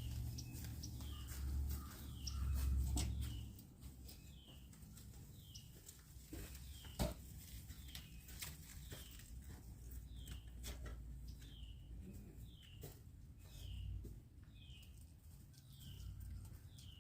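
A bird repeats a short, high, downward-sliding note about once a second. Scattered sharp clicks run through it, and a low rumble is heaviest in the first few seconds.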